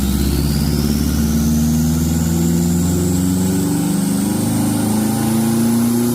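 Subaru STI's turbocharged flat-four engine running on a chassis dyno, with a high whine that rises steadily in pitch as speed builds.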